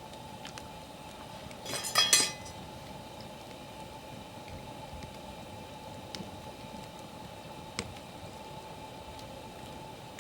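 Metal clinking and rattling, with a short ringing, for about half a second about two seconds in, against the faint crackle of a wood campfire; a single sharp click near the end.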